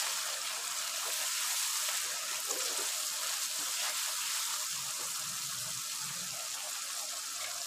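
Chicken karahi frying in ghee in a karahi as it is stirred with a wooden spatula, giving a steady sizzle.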